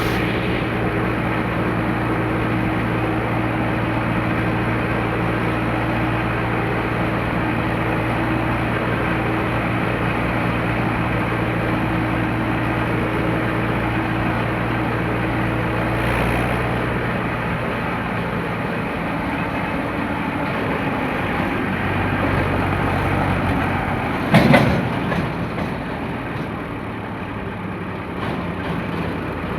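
Tractor diesel engine running steadily, its note changing partway through, with one sharp loud bang near the end.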